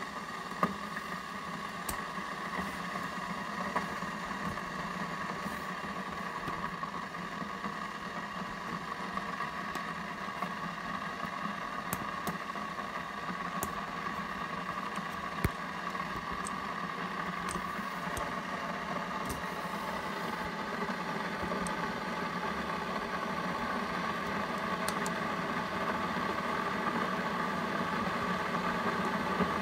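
Coffee maker running steadily as it heats water before brewing, a constant hum with a few faint clicks, slowly growing louder toward the end.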